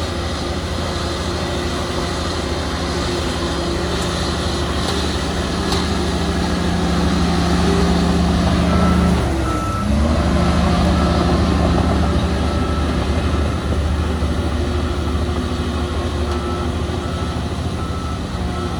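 Heavy diesel earthmoving machinery running steadily, with a reversing alarm beeping in two runs, one in the middle and one near the end. The engine note dips briefly about halfway through, then picks up again.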